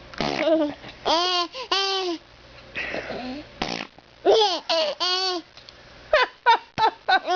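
A mother making silly high-pitched vocal noises, several long calls that swoop up and down in pitch, and a baby laughing at them.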